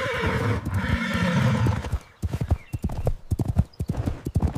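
A horse neighs near the start, then its hooves clip-clop in a quick, uneven run of knocks.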